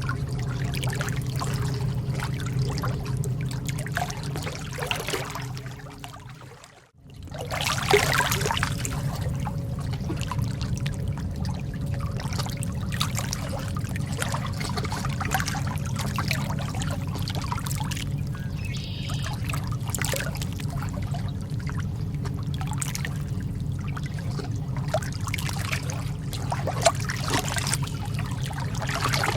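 Lake water lapping and trickling in small splashes, steady and unbroken except for a brief fade-out and return about seven seconds in.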